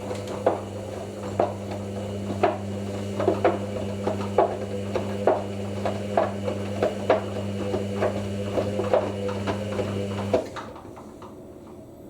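Hoover NeXtra washing machine running during its fill, with a steady hum and irregular light knocks about one or two a second. Both stop abruptly about ten seconds in.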